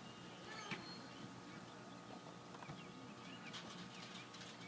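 Faint bird chirps: a scattered series of short, quick calls over a quiet background.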